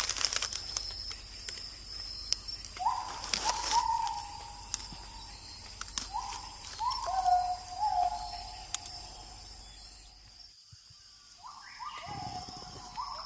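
A bird calling in short groups of falling notes, three bouts in all, over a steady high-pitched insect drone, with scattered sharp clicks and crackles.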